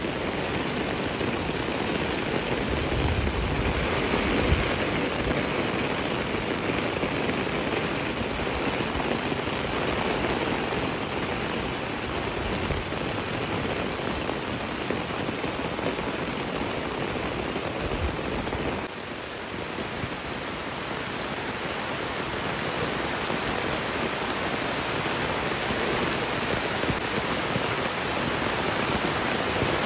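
Steady rain falling, heard as a continuous hiss, with a few low thumps near the start. About two-thirds of the way through it drops off suddenly, then grows louder again, as heavy rain splashing on a waterlogged path.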